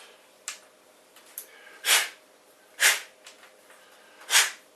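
Short rasping strokes of abrasive, emery paper or a file, scouring a plastic bolt cap to key it for glue: four strokes about a second apart, the last three the loudest.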